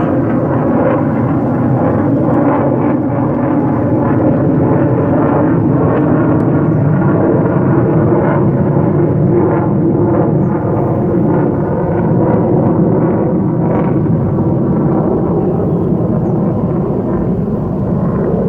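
B-1 bomber flying over, its jet engines making a loud, steady rushing noise.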